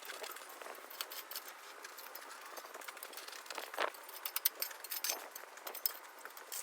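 Shovel and crushed stone being worked in the ground, giving irregular clinks, scrapes and knocks. The loudest knock comes about four seconds in.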